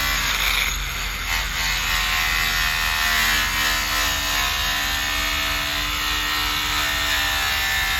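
Electric polishing machine running steadily as it buffs a truck's chrome, its motor whine wavering slightly in pitch.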